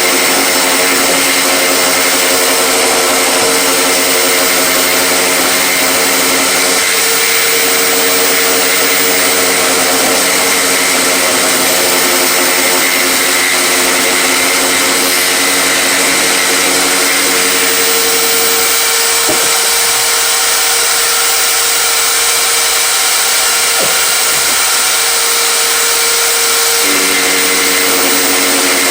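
A power tool's electric motor running steadily and loudly, with a hum whose lower tones drop away for several seconds past the middle and then return.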